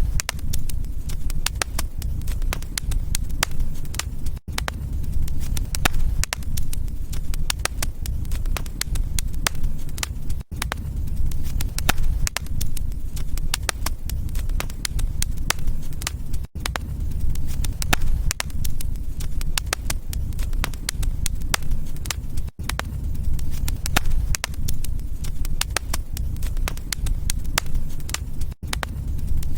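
Wood fire crackling, with dense irregular pops and snaps over a steady low rumble of flames. A brief silent gap comes about every six seconds.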